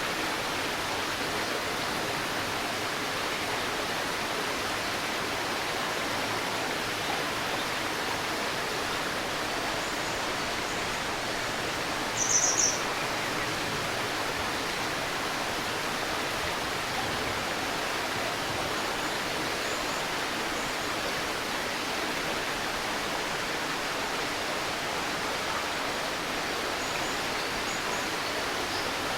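Shallow river babbling steadily over stones. A bird gives a short, high chirping call about halfway through, and fainter high chirps come now and then.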